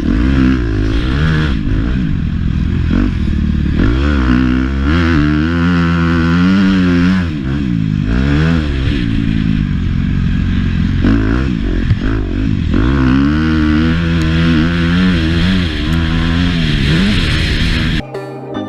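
Motocross bike engine revving hard and falling off again and again, its pitch climbing and dropping every second or two as the rider accelerates, shifts and backs off. It cuts off suddenly near the end, giving way to music.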